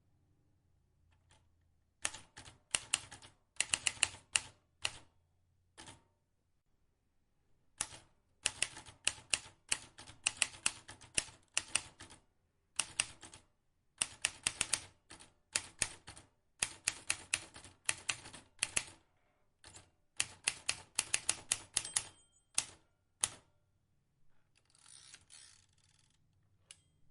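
Vintage typewriter keys struck in quick runs of many clacks, broken by short pauses. Near the end comes a brief rasping noise.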